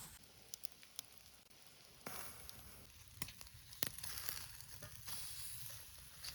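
Steak sizzling over a wood campfire: a steady hiss broken by sharp pops and crackles, the loudest about four seconds in.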